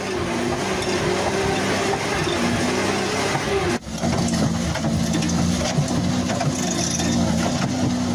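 A vehicle engine running steadily, with a brief break about four seconds in before a similar engine sound carries on.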